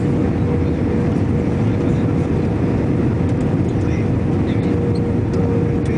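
Airbus A321 airliner noise: a steady low rumble with a constant hum on one note, unchanging throughout.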